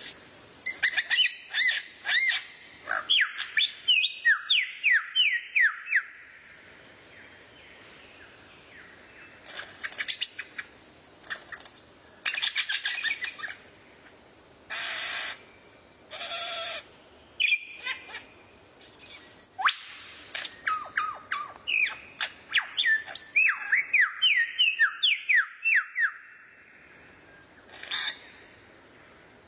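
Songbird singing in fast bursts of sharp, sweeping whistled notes, broken by pauses of a few seconds, with one long rising whistle about two-thirds of the way through.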